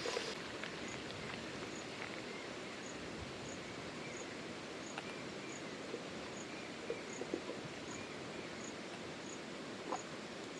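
Steady rush of falling water, with a high insect chirp repeating evenly about every two-thirds of a second and a few light clicks.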